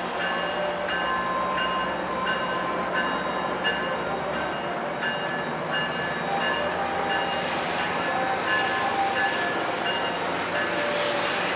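MARC commuter train, a diesel locomotive with bilevel coaches, rolling slowly past with a steady engine drone and wheel noise. Short high tones repeat about twice a second, and a faint high whine rises slowly through the second half.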